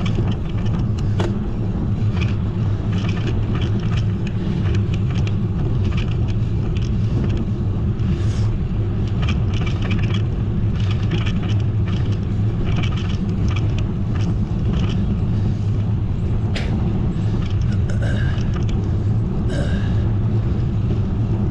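Steady low rumble of wind on the microphone and road noise while riding a bicycle, with scattered small ticks and rattles.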